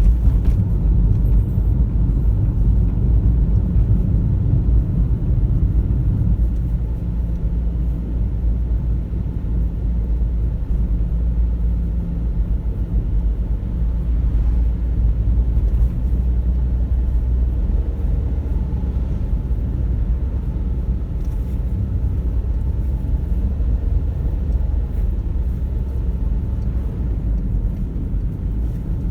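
A car driving: a steady low rumble of engine and tyre noise on the road.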